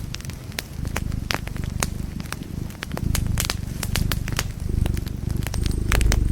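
Wood fire burning in a fireplace: a low, steady rumble of flames with irregular sharp crackles and pops from the burning logs, the loudest pop near the end.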